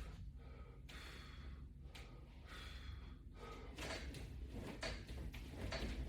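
A person breathing hard in time with sit-up repetitions, one breath about every second, some with a faint whistle, over a steady low hum.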